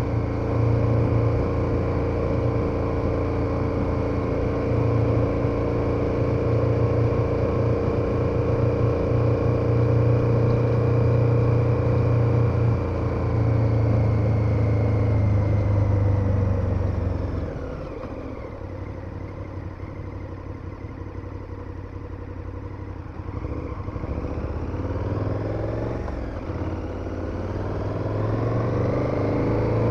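KTM 1290 Super Adventure's V-twin engine running steadily under way. A little past halfway the throttle closes and it drops to a quieter, lower note, then it picks up again, the revs rising toward the end.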